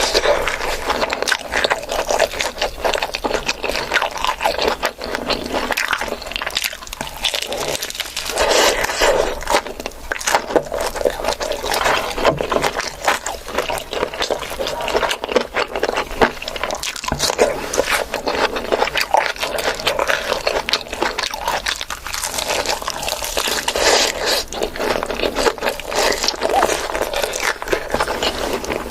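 Close-up eating sounds: wet chewing and crunching with scraping of food, as a plate of fried chicken, fish, biryani and roti is eaten, in a steady run of irregular clicks and smacks.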